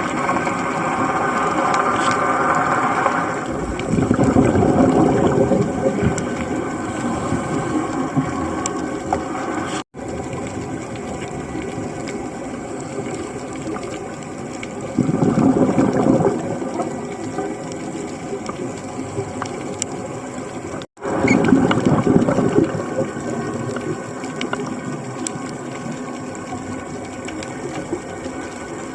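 Underwater recording of a scuba dive: a diver's exhaled bubbles rush out through the regulator three times, each for a second or two, over a steady droning hum carried through the water.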